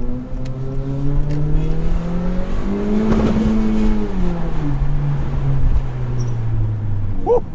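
A 2018 Honda Accord's turbocharged four-cylinder engine heard through a resonator- and muffler-deleted exhaust while driving. The engine note climbs to a peak about three seconds in, drops as the revs fall, then holds steady at a lower pitch.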